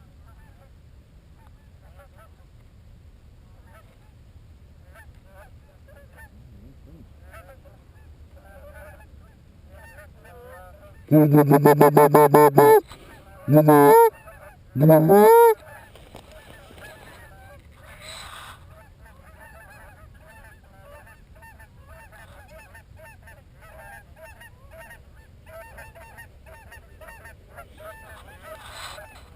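Geese honking, mostly faint and continual, with three loud close-up bursts of goose calling about 11 to 15 seconds in: a hunter's goose call sounded near the microphone, one longer run followed by two short honks that bend in pitch.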